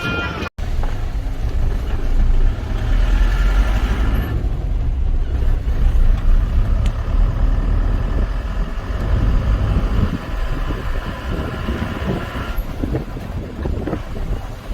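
A motor vehicle's engine running, a loud steady low rumble with fainter higher tones that come and go.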